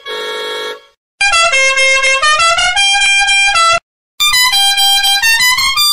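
A cartoon ice cream truck's jingle played in a buzzy, horn-like tone: a held note breaks off about a second in, then the tune runs in two short phrases of stepping notes with a brief silent gap between them.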